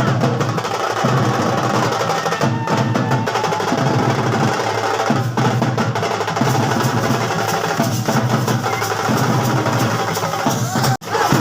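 Music led by fast, steady drumming and percussion; the sound drops out for an instant near the end.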